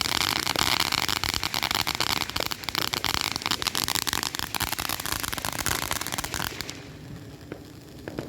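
A firework giving off dense crackling over a steady hiss, which drops away suddenly about six and a half seconds in to a faint hiss with a few scattered pops.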